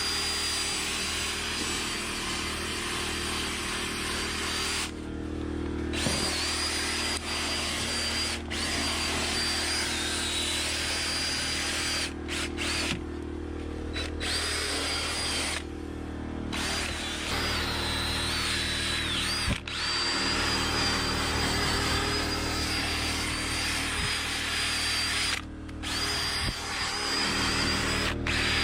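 Dewalt cordless drill spinning a stiff drill brush against car carpet and cloth upholstery, a steady motor whine with the brush scrubbing the fibres, loosening embedded dirt and debris. The trigger is let off a few times, briefly, at about 5, 12 to 16 and 25 seconds in.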